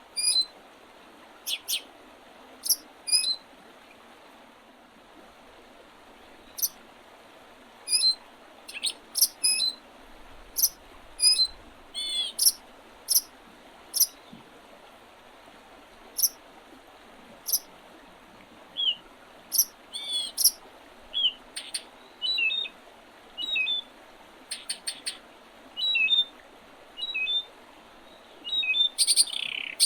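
Small songbirds chirping in short, sharp calls, scattered irregularly with brief gaps and busier towards the end, over a faint steady background hiss.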